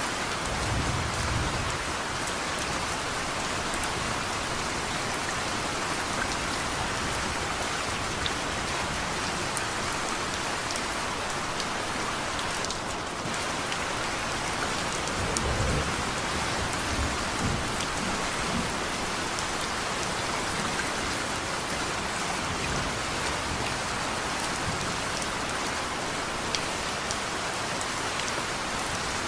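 Steady rain falling, with low rumbles of thunder about a second in and again a little past the middle.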